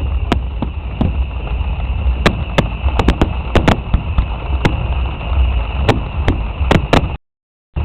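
Fireworks display going off: a fast, irregular run of sharp bangs and pops over a steady low rumble. The sound cuts out completely for about half a second near the end.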